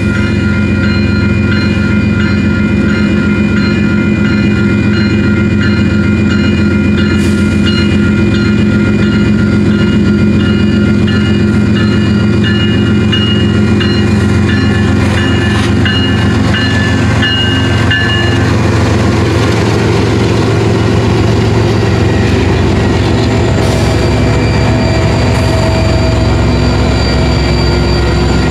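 Union Pacific diesel freight locomotives running and approaching over a grade crossing, then passing, with freight cars rolling by over the rails after them. Steady high tones sound over the engine drone and stop about two-thirds of the way through, where the sound turns to a rougher rolling noise.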